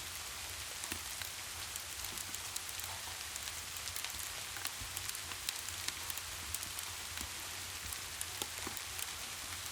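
Steady rain, an even hiss with many scattered sharp drop-like ticks, over a low steady rumble.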